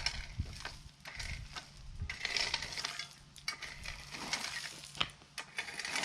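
Gravel and crushed stone crunching in irregular steps and clicks, over a faint low hum.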